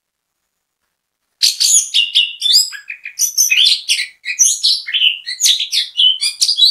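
Orange-headed thrush (anis kembang) singing a fast, varied song of high whistles and chirps that starts about a second and a half in, with a brief break near the middle.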